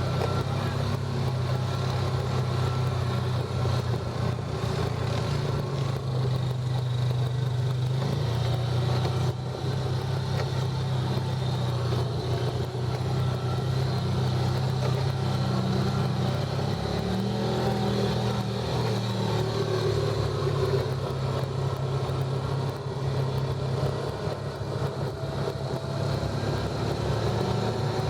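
A motor vehicle's engine running steadily while driving, its pitch shifting a little with speed, with no break throughout.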